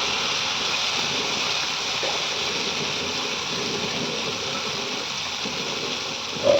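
Rice-flour zeroo batter frying in hot oil: a steady, even sizzle. A brief pitched blip sounds near the end.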